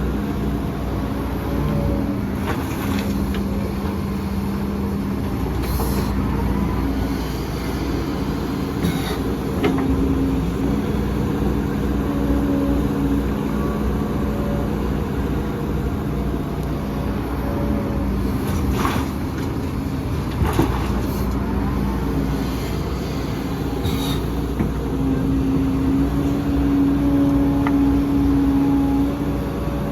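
Heavy diesel earthmoving machinery running steadily, its engine note shifting now and then and a little louder near the end, with occasional sharp knocks.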